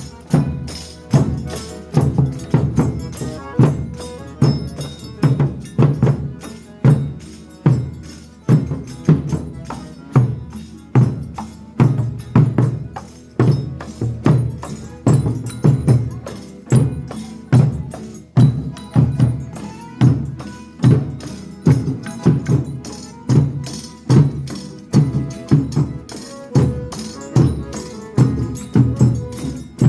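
Folia de Reis music: tambourine with a steady, heavy low beat struck about once a second, running without pause.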